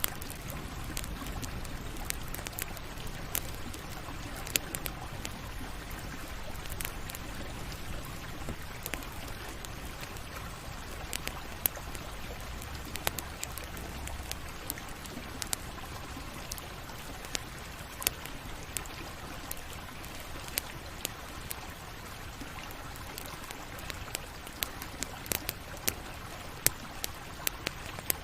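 Campfire burning: a steady hiss of flames with irregular sharp crackles and pops from the burning wood, a few louder snaps standing out.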